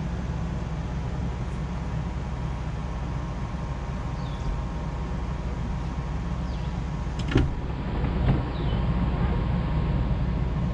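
A vehicle running with a steady low rumble and a faint steady hum above it, with two sharp knocks about seven and eight seconds in.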